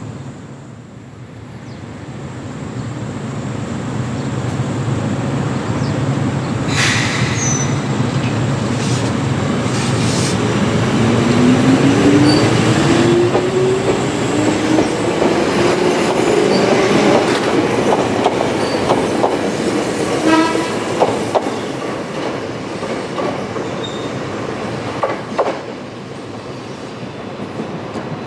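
Yellow Ohmi Railway electric train pulling out of the station. Its motor whine climbs steadily in pitch as it gathers speed, then its wheels clack over the rail joints as the cars roll past.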